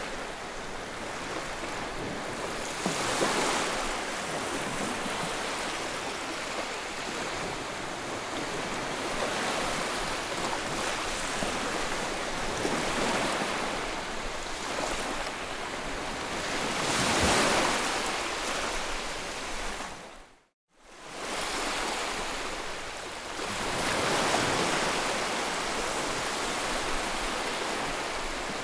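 Ocean waves washing on a shore, a steady rush of surf that swells up every several seconds as each wave breaks. About twenty seconds in the sound dips to silence for a moment and comes straight back.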